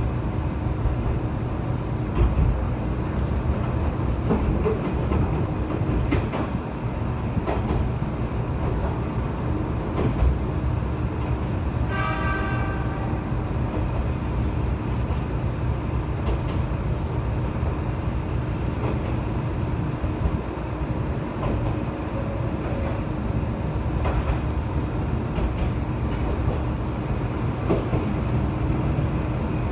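Kanto Railway KiHa 2400 diesel railcar running, heard from inside the car: steady engine and wheel-on-rail noise with occasional rail-joint clicks. About twelve seconds in, a brief pulsing tone sounds over it.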